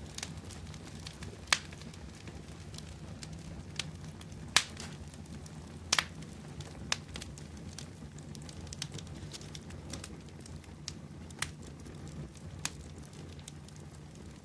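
Wood bonfire burning and crackling, with sharp pops every second or two over a steady low rumble; the loudest pops come about a second and a half in, near four and a half seconds, and a double pop around six seconds.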